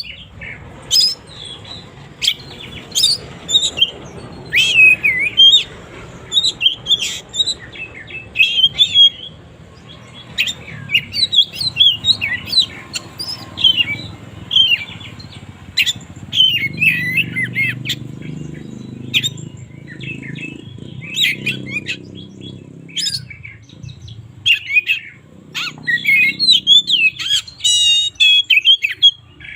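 Oriental magpie-robin (kacer) singing a varied, continuous song of short whistled and chirping phrases, with a fast rattling trill near the end.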